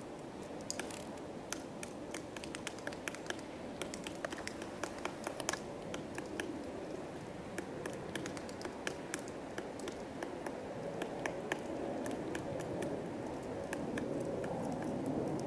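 Pileated woodpecker pecking at wood: irregular sharp taps, several a second, over a steady low background rumble.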